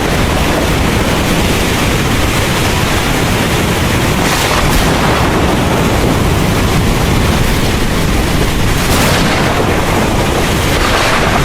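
Heavy rain pouring steadily over a continuous low rumble of thunder, the downpour swelling louder a few times.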